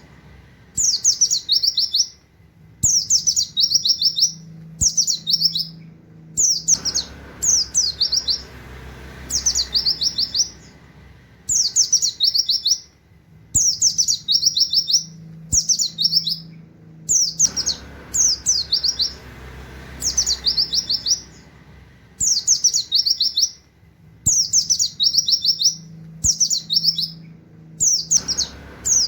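White-eye (pleci) singing in short repeated bursts: each phrase is about a second of fast, high, descending whistled notes in the canary-like 'wit wit' style. A new phrase starts every one to two seconds.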